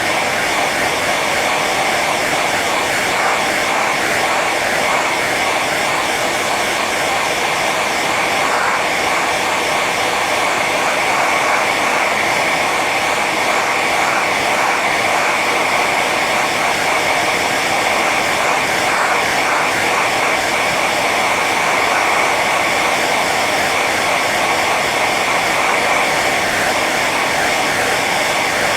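Hair dryer running steadily on its high setting: a constant rush of air with a steady high whine from the fan motor.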